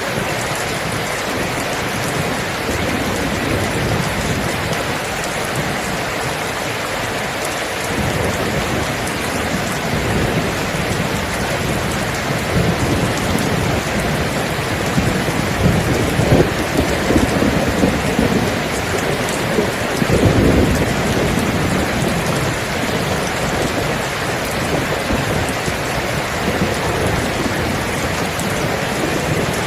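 Steady heavy rain with rumbling thunder rolling underneath, swelling about halfway through and again about two-thirds in.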